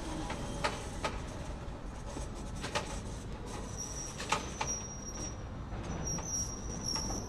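Open-top freight hopper cars rolling slowly on steel rails: a steady rumble of wheels with scattered clanks and clicks. From about halfway through, a thin high squeal comes and goes.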